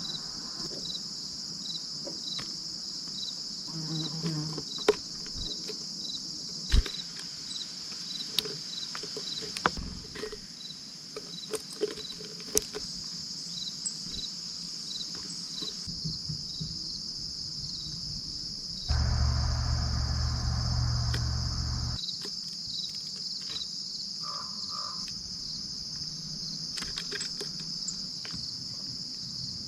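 Steady chorus of insects, a continuous high-pitched trill with a regular pulse. It is broken by scattered sharp clicks and taps, and by a louder low rumble lasting about three seconds past the middle.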